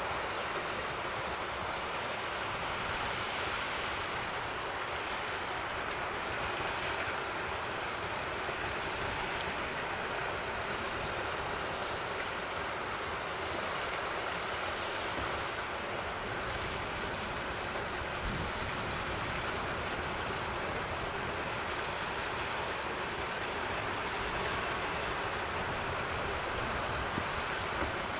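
Steady, even rushing background noise with no distinct calls or knocks.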